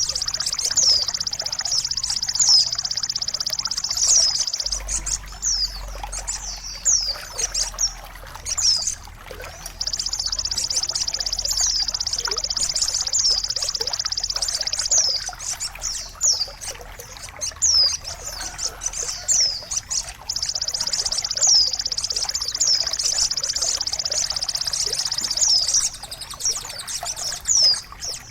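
Bird-therapy soundscape: trickling water under a steady high-pitched hiss, with many short, falling bird chirps repeating throughout. The high hiss drops out a few seconds in and again near the end.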